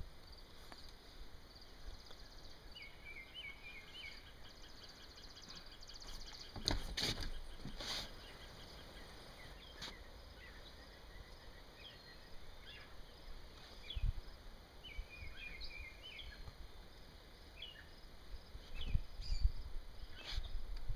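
Outdoor ambience with a songbird singing short chirping phrases, twice, over a low rumble. A few knocks and rustles of handling cut in, the loudest a few seconds after the first song phrase and again near the end.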